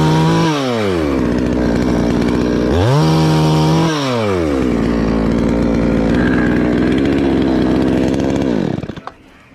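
Two-stroke chainsaw engine revved twice to high throttle, each rev holding for about a second before falling back, running steadily in between. Near the end it winds down and cuts out.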